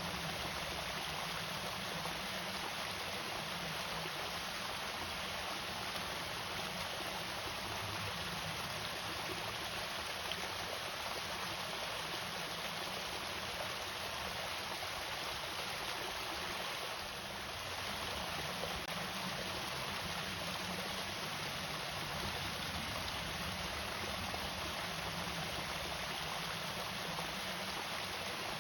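Steady rush of water falling over a small irrigation weir or waterfall.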